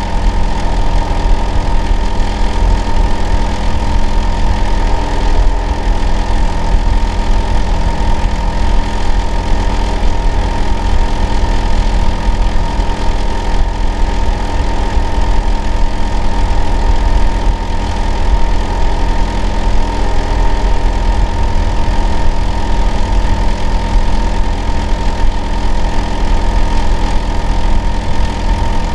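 Hitachi air-conditioner outdoor unit running: a loud, steady drone with a heavy low hum and a steady whining tone near 1 kHz, unchanging throughout. The owner of the recording calls it noisy and abnormal.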